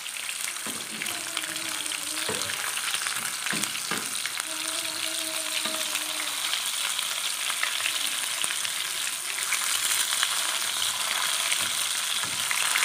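Chicken koftas sizzling and crackling as they shallow-fry in hot oil in a frying pan, with a few light knocks as they are turned.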